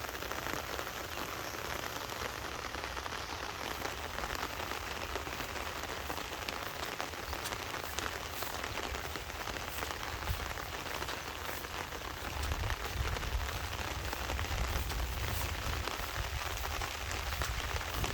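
Heavy monsoon rain falling steadily, with many individual drops ticking through the hiss. A low rumble grows stronger about two-thirds of the way through.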